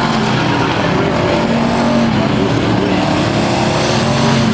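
Several Thunder Truck race trucks' engines running at racing speed on the track, many engine notes overlapping and shifting in pitch as the trucks come and go.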